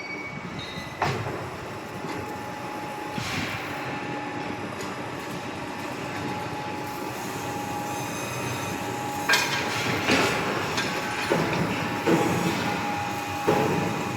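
Runming TC780L hydraulic timber crane working: a steady hydraulic whine and drone, with sharp metallic clanks and knocks, several of them in the latter half.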